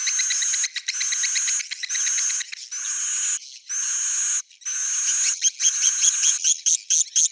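Swiftlet roosting-call lure recording: bursts of dense, high chattering twitter, each under a second long with short breaks between, breaking into quick separate chirps several a second near the end. This is the 'suara inap' sound played in swiftlet houses to make the birds settle and nest.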